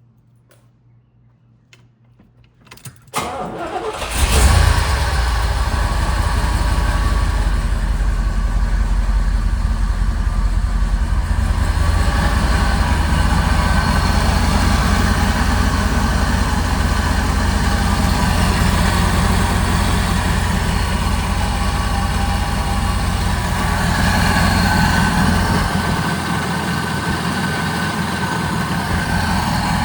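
1972 Chevrolet Corvette's 454 cubic-inch big-block V8 being started: after a few quiet seconds the starter cranks briefly, the engine catches about four seconds in with a short surge, then settles into a steady idle.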